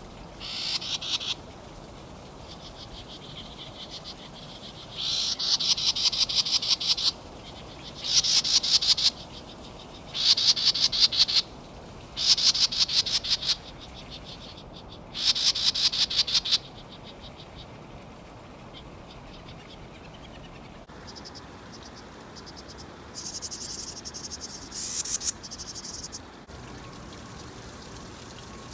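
An animal calling in trills of rapid pulses, each one to two seconds long and repeated every few seconds. After a change about two-thirds through, higher and shorter pulsed bursts follow.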